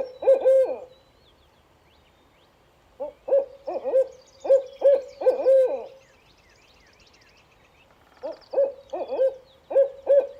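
Barred owl calling: three bouts of rhythmic hooting, each phrase of several hoots ending in a longer, falling hoot, the classic 'who-cooks-for-you' call. Faint high chirps sound behind it.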